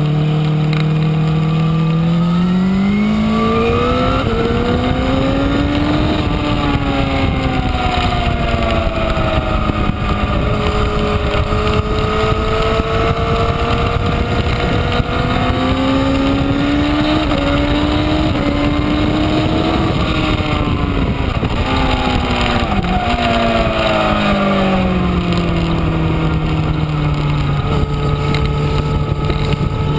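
2012 Honda CBR1000RR's inline-four engine running under way, its pitch climbing and falling slowly several times as the bike accelerates and eases off, with a quick dip in pitch near the top of one climb.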